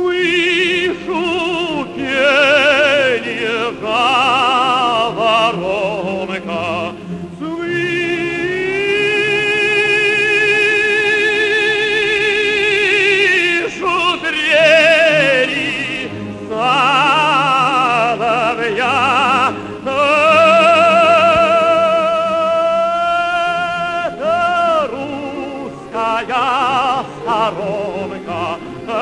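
Operatic tenor singing with orchestral accompaniment, with a wide vibrato. He holds two long notes for several seconds each, one about eight seconds in and one about twenty seconds in.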